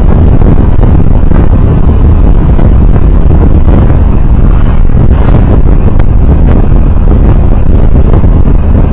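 Steady, loud rumble of a vehicle on the move on the road, heaviest at the low end with a rushing noise over it and no distinct events.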